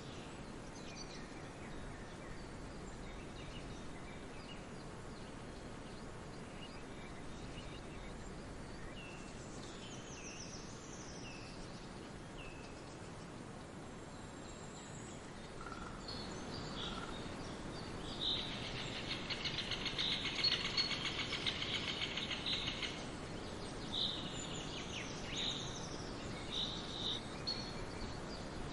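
Wild birds chirping and calling over a steady background hiss. About 18 seconds in, a loud, fast trill runs for around five seconds, followed by short, sharp chirps.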